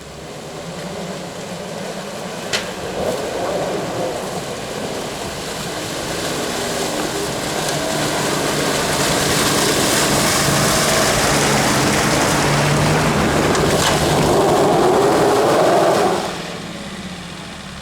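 Off-road 4x4 engine running hard under load as the vehicle pushes through water and ice, with a loud rushing splash over the engine note. It builds over about ten seconds, holds, then falls away sharply near the end, with a couple of sharp knocks along the way.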